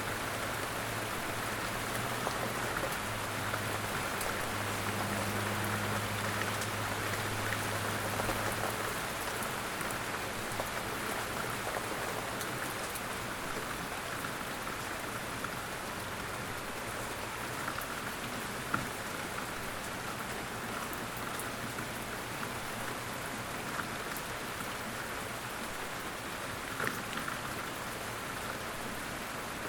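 Light rain falling steadily in woodland, an even hiss of drops with a few louder single drops now and then.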